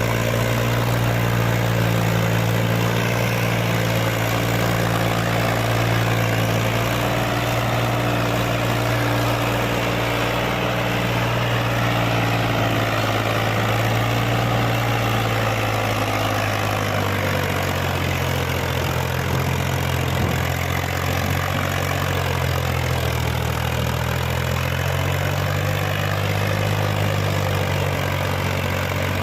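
Mahindra 265 tractor's three-cylinder diesel engine running steadily under a full load. Its note drops slightly and wavers a little after about seventeen seconds.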